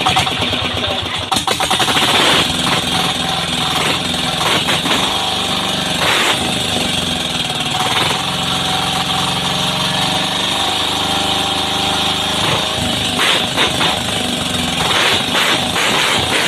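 16 hp Yanmar diesel engine on a bangka running, with a rapid knocking beat; its pitch shifts a little in the middle.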